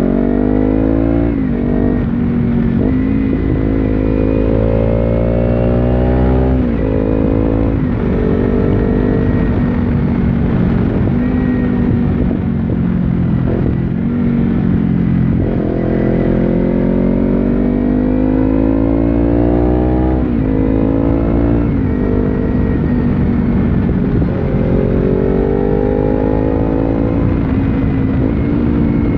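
2015 Kawasaki Ninja 300's parallel-twin engine through an Akrapovic slip-on exhaust, heard on board while riding. It pulls repeatedly with the pitch rising, and each climb is broken by a sudden drop as it shifts up or the throttle closes.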